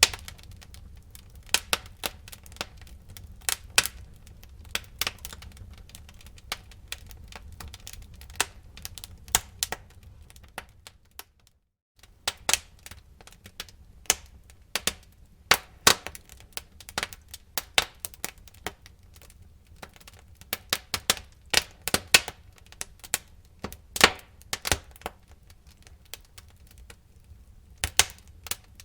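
Wood fire in a fireplace crackling, with irregular sharp pops and snaps of burning wood over a low rumble of the flames. The sound drops out for a moment a little before the middle, then the crackling resumes.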